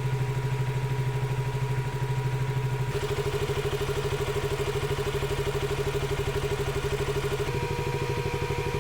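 KTM RC 200's single-cylinder engine idling with a rapid even beat while its radiator cooling fan runs with a steady whir.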